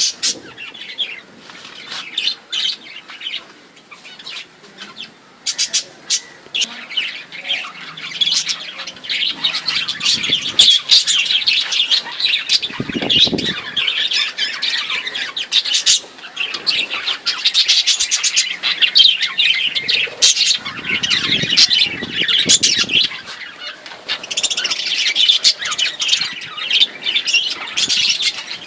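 A flock of caged budgerigars chirping and chattering: scattered sharp chirps at first, then a dense, continuous chatter from about a third of the way in.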